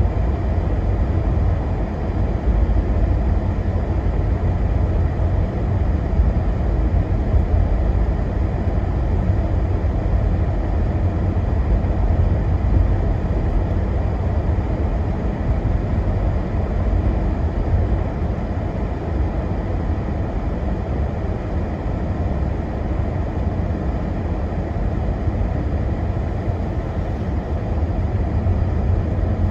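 Steady low rumble of a car driving, heard from inside the cabin: engine and road noise, with no sudden sounds.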